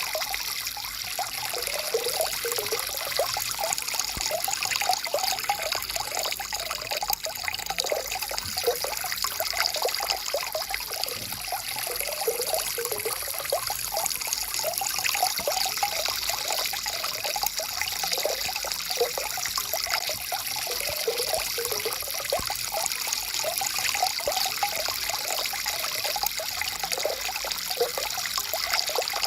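Stream water flowing and trickling, a steady rush with constant small gurgles.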